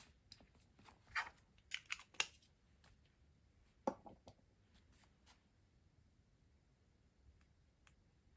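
Stationery and its packaging being handled: a few light rustles and clicks about a second to two seconds in, a sharper knock near four seconds, then only faint ticks.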